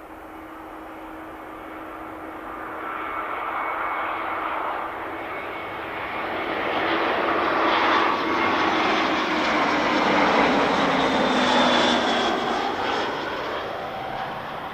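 Airliner's engines swelling as it flies past close overhead, loudest around eight to twelve seconds in, their tones dropping in pitch as it passes and then fading.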